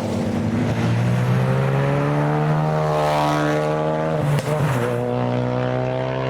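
Mk2 Ford Focus five-cylinder turbo engine driving slowly past. Its note rises in a rev about two seconds in and falls back, drops out briefly a little past the middle, then settles to a steady drone.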